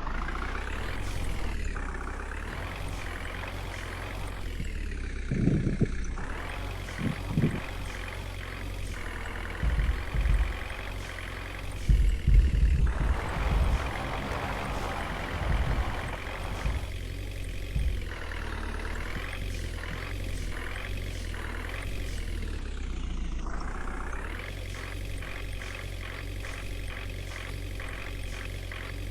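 Water tanker vehicle's engine running steadily with a low hum, with a cluster of short, heavy low thumps in the middle.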